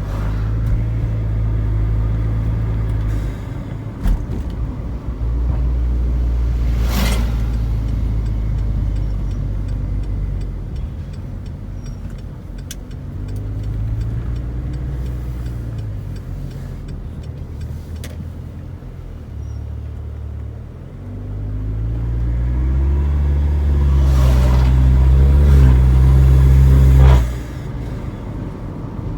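Proton Preve's engine running through an aftermarket cat-back exhaust during warm-up, its revs rising and falling several times. It is held at higher revs for a few seconds near the end, then drops back sharply.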